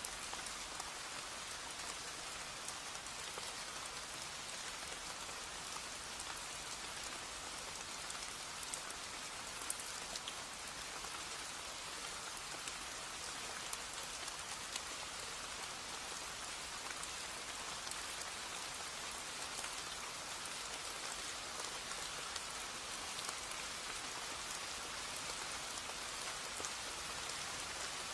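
Steady rain falling, with individual drops ticking close by now and then.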